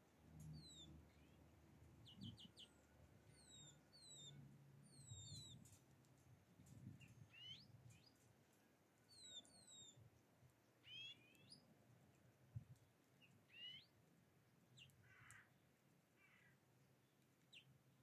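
Faint calls of small wild birds: short downward-sliding chirps, often in quick pairs, through the first half, then scattered rising chirps, over a soft low hum.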